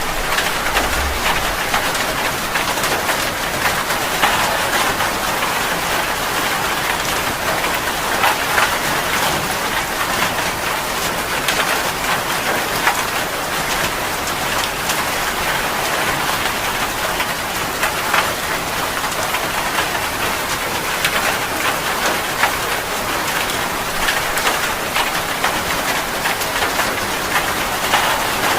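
Heavy rain falling steadily, a dense even hiss made up of countless close drop patters.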